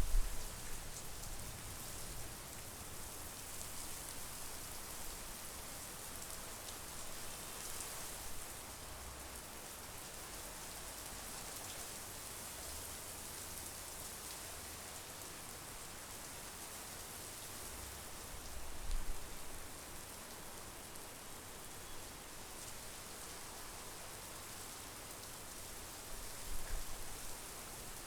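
Steady monsoon rain falling in a continuous even hiss. A few brief low rumbles stand out above it: one right at the start, one about two-thirds of the way through, and one near the end.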